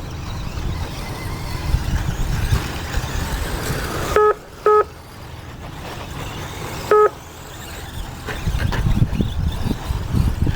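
Electric RC off-road cars running on a dirt track, a steady noisy whirr and rumble, with three short electronic beeps at about four, four and a half, and seven seconds in, typical of the race's lap-counting system registering cars crossing the line.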